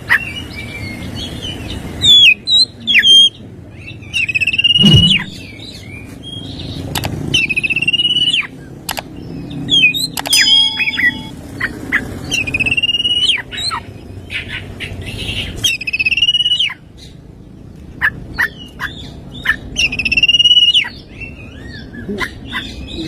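Oriental magpie-robin (kacer) singing. Its song repeats loud whistled phrases, each starting with a rising slur and then holding a clear tone, mixed with short sharp chips and high notes.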